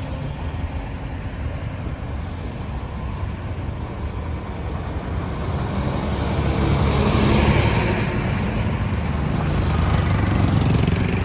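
Road traffic noise: a steady low engine rumble with tyre and road noise, swelling twice as vehicles pass close by, about seven seconds in and again near the end.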